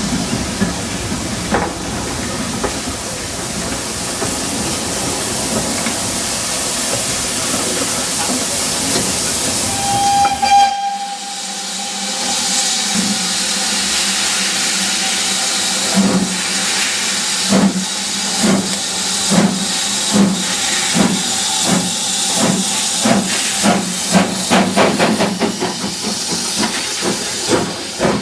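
Steam locomotive hissing steam, with a short whistle about ten seconds in. Its exhaust beats then start slow and quicken steadily as it gets under way.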